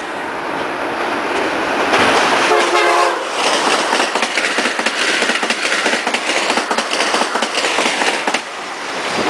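A train passing close by, a steady loud noise of wheels on rail, with a short horn blast of about a second roughly two and a half seconds in.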